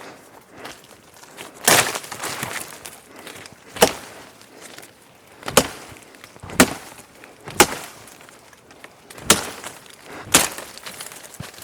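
Wood being chopped with sharp blows, about seven strikes spaced unevenly one to two seconds apart.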